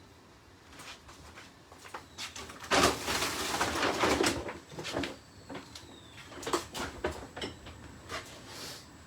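Kitchen handling sounds: scattered knocks and clicks of cookware, with a louder rustling clatter lasting under two seconds about three seconds in.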